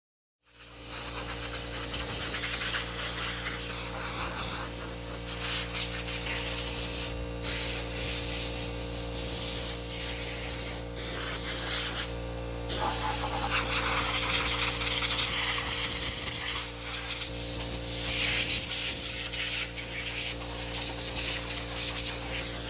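Pressure washer spraying water, with a steady motor hum underneath; the spray breaks off briefly about 7 and 12 seconds in.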